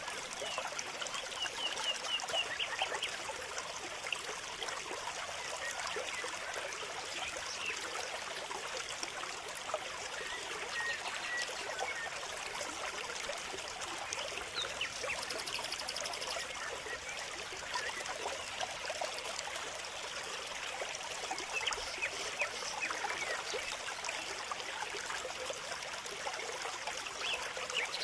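Water trickling steadily, with small birds giving short, quick chirps over it now and then.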